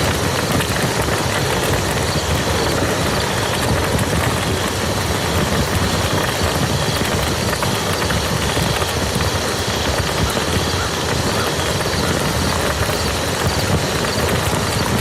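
Steady rain falling on a muddy field: an even hiss of drops with scattered faint drop ticks.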